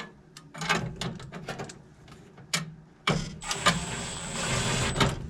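Screws and metal parts clicking and rattling as they are handled, then a power drill/driver runs for about two seconds with a steady high whine, driving a screw into the blower mount.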